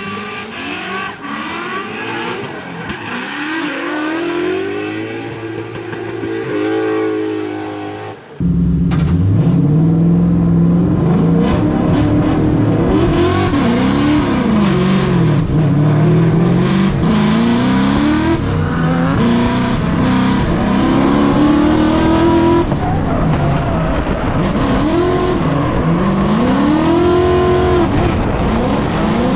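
Drift car engine revving hard and repeatedly rising and falling in pitch through a run, with tyre squeal. About eight seconds in, the sound jumps abruptly to a much louder, closer engine.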